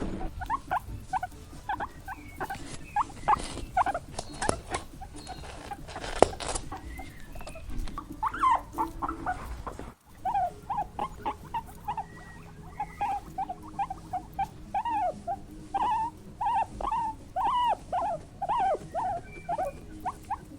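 Animals making many short, squeaky calls in quick succession, with a cut about halfway through to another clip of similar calls.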